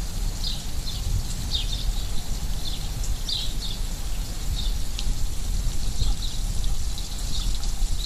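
A small bird giving short, high chirps every half second to a second, over a steady low rumble.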